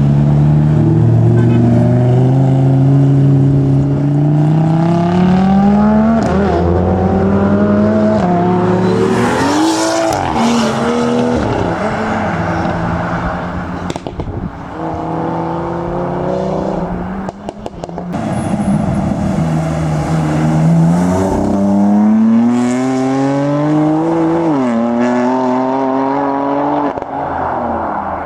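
Tuner cars accelerating hard away one after another. Their engine pitch climbs and drops back at each gear change, several times over.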